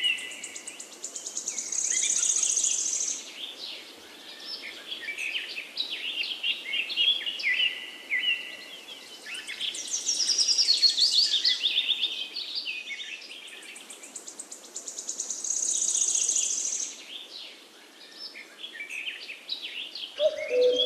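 Songbirds singing over one another, with a fast trilled phrase that comes back every six to eight seconds among many short chirps. A lower, steady call starts just before the end.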